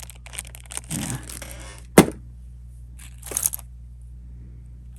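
Plastic bag crinkling as jewelry is handled, then a single sharp knock about two seconds in, the loudest sound, and a short rustle a second later.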